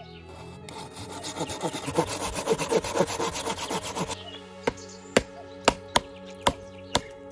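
Hand saw cutting through wood in quick rasping strokes, then sharp chopping strikes on wood at about two a second, with steady background music underneath.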